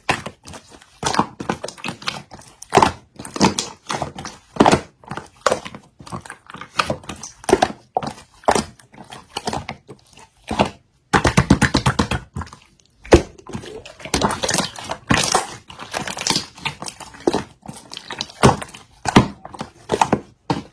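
Slime being played with by hand: irregular wet squishes with sharp sticky clicks and pops, and a dense run of rapid crackling clicks a little past the halfway point.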